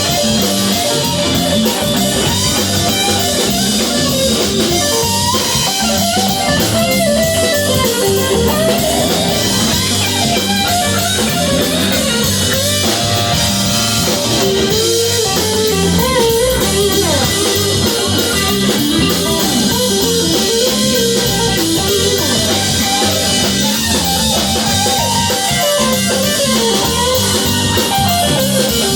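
Live band music: guitars playing over a drum kit and bass.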